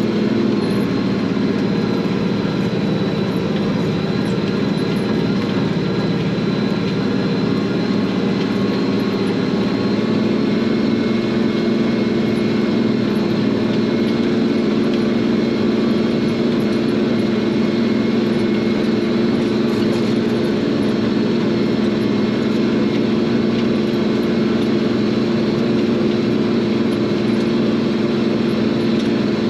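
International Harvester 1086 tractor's turbocharged six-cylinder diesel running steadily under load, pulling a field cultivator.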